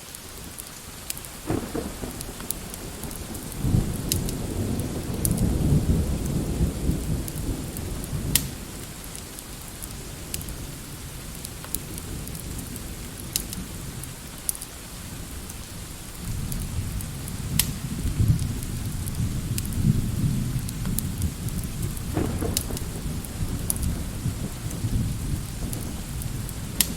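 Steady rain with two long, low rolls of thunder, the first building a couple of seconds in and the second about two-thirds of the way through. Scattered sharp crackles from a fireplace run underneath.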